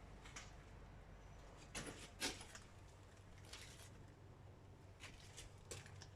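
Near silence with a low steady hum and a handful of faint, short clicks and knocks, the loudest a little over two seconds in.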